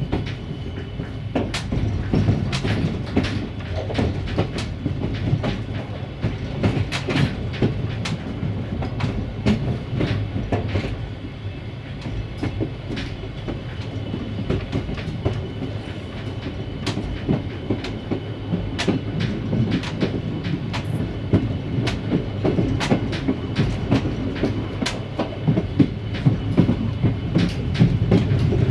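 A train rolling along the track, its wheels clicking and clacking irregularly over rail joints over a steady low hum.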